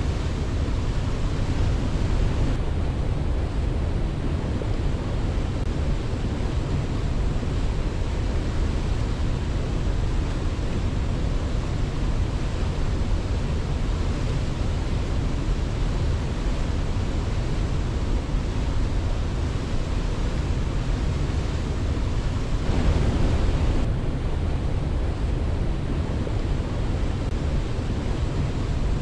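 Steady, even rushing of water, like a waterfall, with a brief swell about 23 seconds in.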